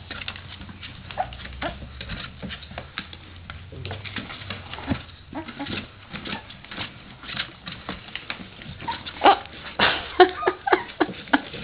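Three-week-old Portuguese Water Dog puppies scrabbling and scratching about, with short high whimpers and squeaks toward the end.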